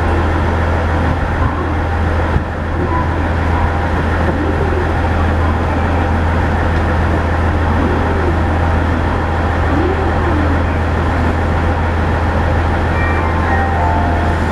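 KiHa 110 series diesel railcar's engine running steadily with a loud low hum. A few melody-like notes begin near the end.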